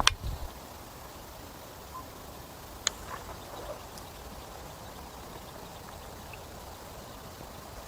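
Two sharp clicks or knocks, one right at the start and a fainter one about three seconds in, over a low steady background hiss.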